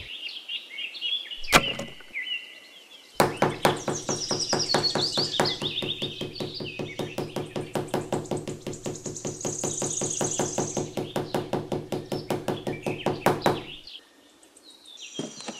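A small hammer tapping thin wooden sticks into sand: one knock, then a long run of quick, even knocks that stops near the end, with birds chirping over it.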